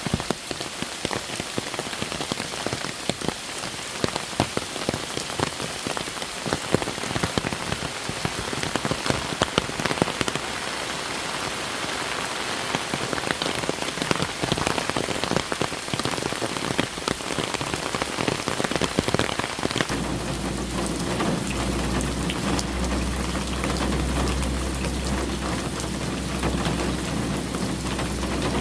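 Rain falling steadily, with many distinct drops hitting a surface. About two-thirds of the way in, a steady low rumble sets in beneath the rain.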